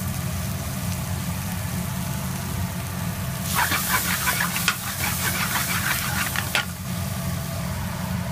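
Chicken tikka, peppers and tomatoes sizzling in a steel balti pan while a metal spoon stirs them. The sizzle swells loudly from about three and a half seconds in until nearly seven seconds, over a steady low hum.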